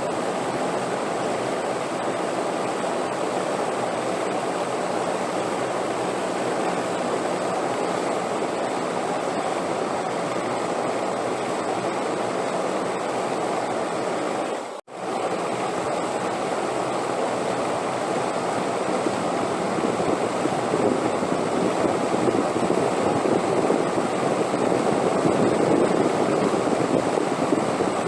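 Steady rushing wind, with no pitch or rhythm. It breaks off for an instant about halfway through, then gusts a little louder in the last third.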